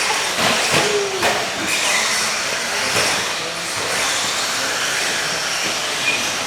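Electric RC stadium trucks racing around the track: a steady mix of motor whine and tyre hiss, with a brief gliding whine about a second in as one truck speeds up or slows.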